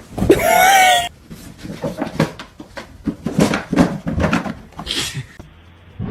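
A pet's short, loud wavering cry, then a run of quick, irregular taps and clicks.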